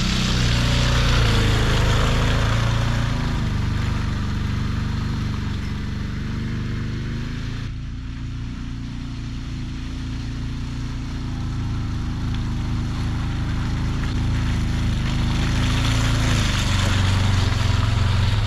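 Side-by-side UTV engine running steadily under way. It eases off somewhat partway through and picks up again near the end.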